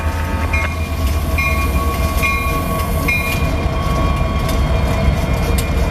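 Diesel locomotive approaching and passing close by, its engine and wheels making a steady low rumble, while a grade-crossing bell rings about once a second. A few sharp wheel clicks come near the end.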